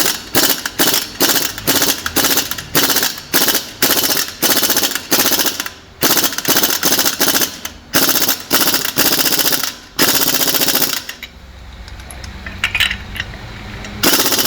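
Pneumatic impact wrench hammering on a seized, over-tightened wheel nut, worked in short taps about two or three a second, then in longer runs of a second or two. After a quieter pause near the end, it starts one continuous run.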